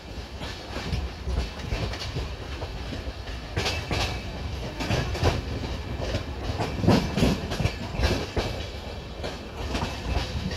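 Express passenger train running, heard from inside a coach: a steady rumble with irregular clacks as the wheels pass over rail joints.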